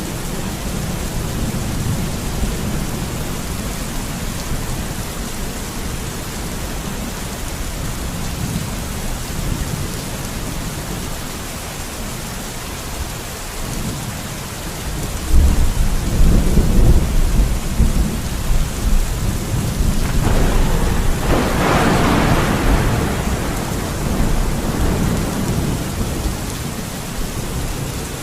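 Steady rain falling. About halfway through, a deep low rumble swells up for a few seconds, followed shortly by a louder, brighter rush that fades out again.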